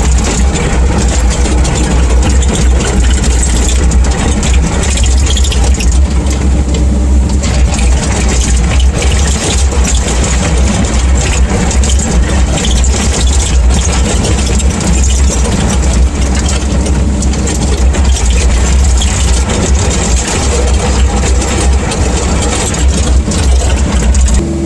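CAT 305.5 mini excavator's diesel engine running steadily at a strong, loud level, with a dense rattling noise over its low rumble. The sound drops abruptly near the end.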